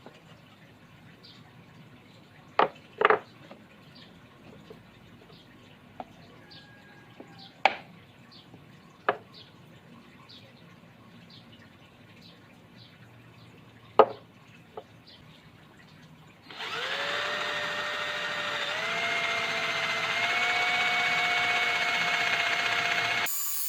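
Scattered knocks and clicks of tools and wood being handled, then about two-thirds of the way through an electric drill starts and runs with a steady whine that steps up in pitch a few times as it speeds up. It cuts off suddenly just before the end.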